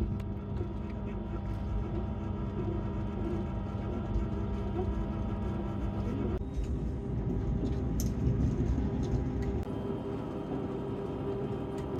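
Yufuin no Mori diesel railcar running, heard from inside the passenger cabin: a steady low drone and rumble of engine and wheels on the rails. The sound changes abruptly about six seconds in, with a few sharp clicks a little later.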